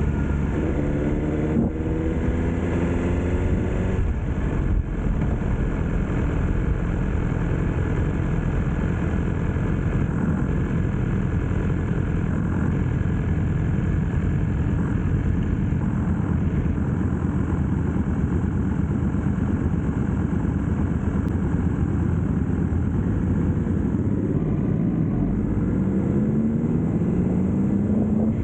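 BMW S1000R inline-four motorcycle engine under way: its pitch rises through the gears in the first few seconds, with a brief break at a shift, and rises again near the end. In between it holds a steady cruise under a dense rush of noise.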